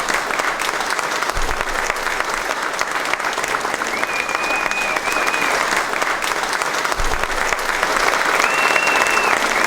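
Audience applauding steadily, growing a little louder. A brief thin high tone sounds twice over the clapping, about halfway through and near the end.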